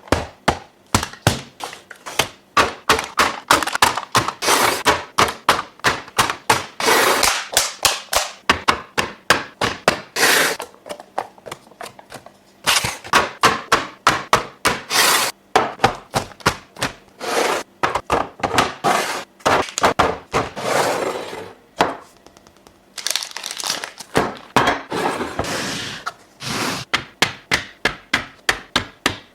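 Quick clinks and knocks of bottles, jars and containers being set down and arranged on refrigerator shelves, several a second, with a few longer stretches of rustling or scraping in between.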